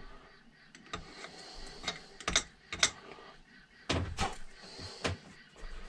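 Irregular light clicks and taps of small carburetor parts being handled and fitted together by hand on a motorcycle carburetor, about ten in a few seconds.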